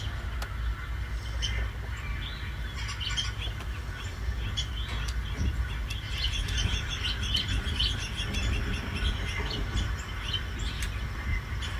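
Several birds chirping throughout, many short overlapping chirps, over a steady low rumble.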